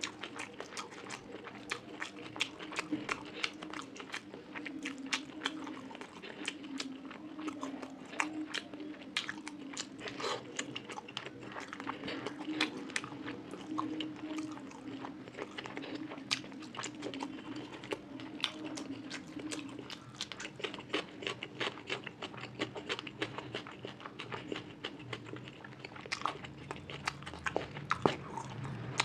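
A person chewing and biting food close to the microphone, with many sharp mouth clicks and crunches throughout.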